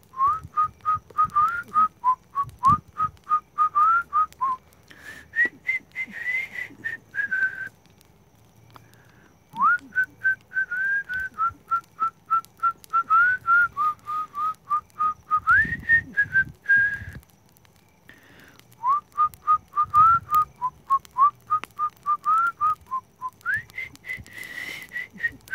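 A person whistling a tune: phrases of quick, clear notes, with short pauses between them, and the last phrase pitched higher.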